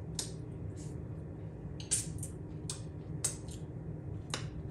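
A person chewing food with a series of short, wet lip smacks and mouth clicks, about eight in all, over a steady low hum.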